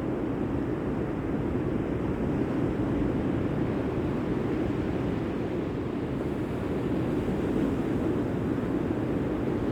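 Steady rushing noise of sea surf and wind, with no distinct wave crashes or breaks.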